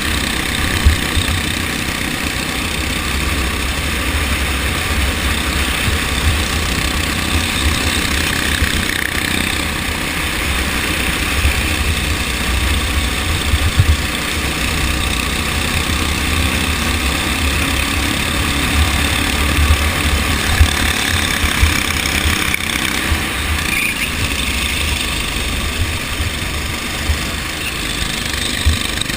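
Go-kart engine running steadily through a race, with strong low flickering rumble under it.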